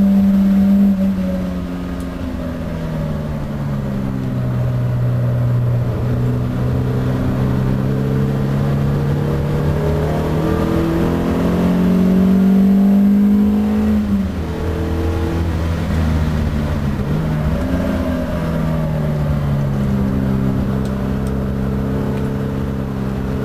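Alfa Romeo Bertone coupé's four-cylinder twin-cam engine heard from inside the cabin at speed on track: the engine note climbs slowly under load and drops sharply about a second in and again about fourteen seconds in as the driver lifts or shifts, then holds fairly steady near the end.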